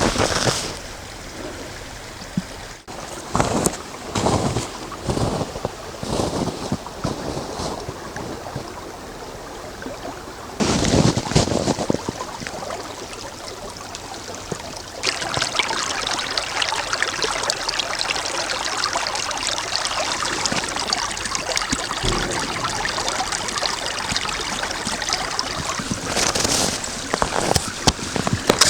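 Footsteps of winter boots crunching on snow, about one step a second. From about halfway through they give way to a steady rushing noise.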